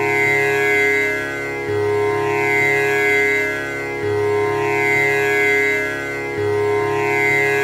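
Tanpura drone: its strings plucked in an unbroken repeating cycle, a new low-string pluck about every two and a half seconds, the tones ringing on and overlapping with a shimmering, buzzy upper edge.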